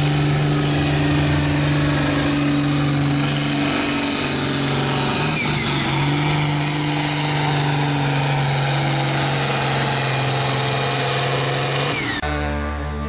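Modified diesel farm tractor's engine running hard under load during a pull, holding a steady high pitch. Near the end the sound changes abruptly and the level drops away.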